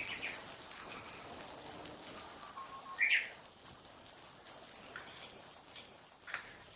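Steady chorus of summer insects, a continuous high-pitched buzz, with a few short bird chirps over it, the clearest about three seconds in.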